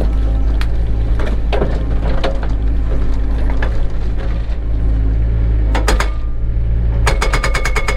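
Cat 307 excavator's diesel engine running steadily, with scattered knocks and clatter from the machine at work. About a second before the end a fast, even rattle of impacts starts.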